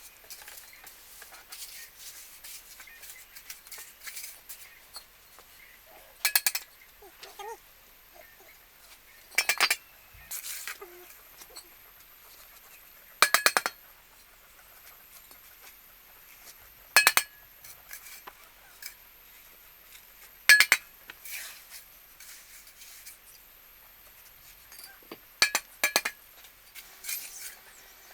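Sharp, ringing clinks of metal or glass on a hard object, one every three to four seconds.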